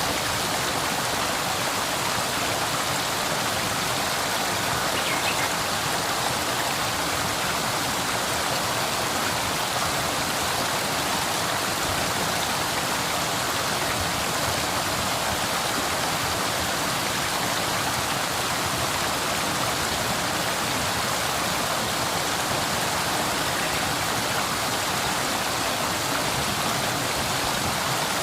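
River water flowing steadily, a continuous even rush with no change.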